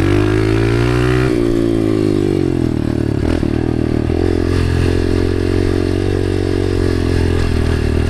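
Dirt bike engine running under throttle: the revs climb for about the first second, drop sharply, then hold fairly steady.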